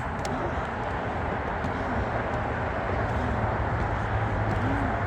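Steady roar of road traffic, an even rumble with a low hum underneath.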